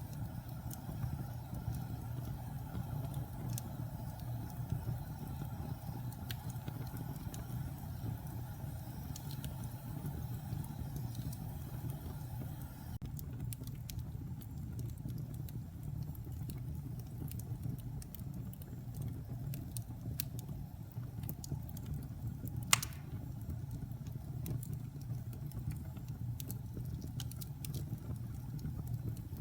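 Wood fire burning in a fireplace, fed with damp and pine logs: a steady low roar with scattered small crackles, and one loud pop about three-quarters of the way through.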